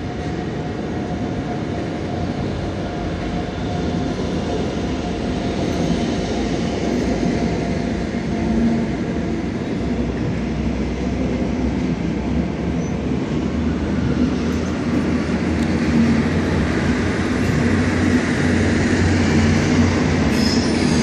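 Electric regional trains on the station tracks. A MittelrheinBahn Siemens Desiro ML pulls out with a steady motor whine over the rumble of its wheels. Then a red DB regional train rolls in, its rumble and wheel hiss growing louder through the second half.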